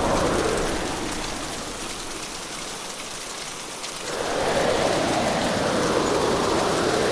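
Hurricane rain and wind, a dense rushing noise that eases off for a few seconds and surges back up about four seconds in.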